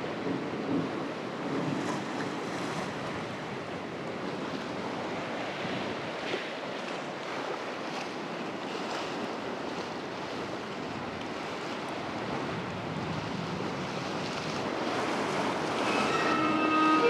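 Steady rushing noise, like wind or surf, with bowed violin notes coming in near the end.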